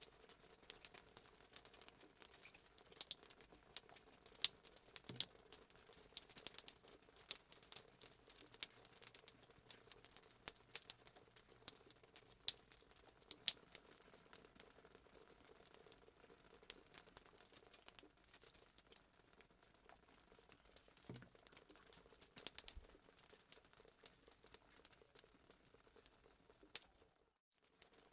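Fireplace crackling sound effect: quiet, irregular pops and crackles of burning wood, cutting out briefly near the end.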